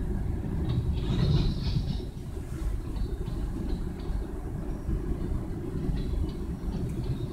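Kansas City Southern de México freight train of gondola cars rolling past, a steady low rumble of wheels on rail with a few sharp metallic clicks.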